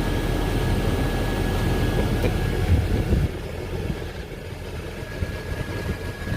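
Tractor engine running at a steady idle, a low rumble with a faint steady whine above it; it drops a little in level about three seconds in.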